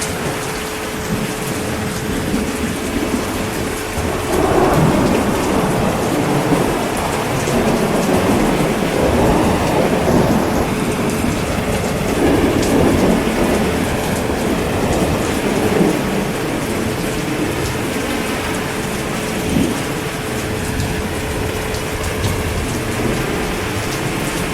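Steady heavy rain falling, with a long roll of thunder that swells a few seconds in and rumbles on until it fades about two-thirds of the way through.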